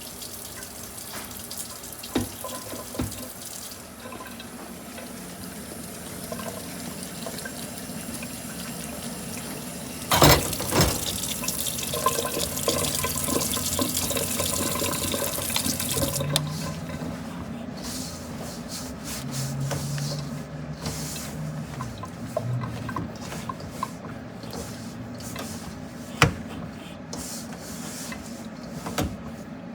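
Water running from a kitchen tap for about the first sixteen seconds, with a loud knock about ten seconds in and a few sharp clinks of kitchenware.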